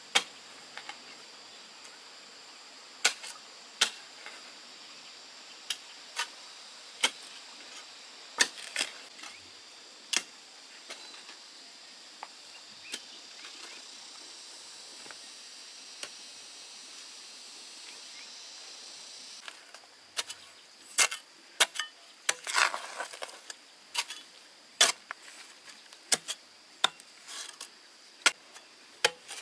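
Irregular sharp taps and clicks, one every second or two at first and coming faster over the last third, with a short run of crackling near the end. A steady high hiss runs underneath and cuts off abruptly about two-thirds of the way through.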